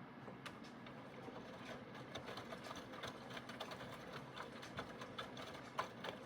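Aidoo 1 kg mini washing machine running its wash, its direct-drive motor turning the drum with a faint steady hum and many small clicks. It is running quietly, without the high-pressure water pump on.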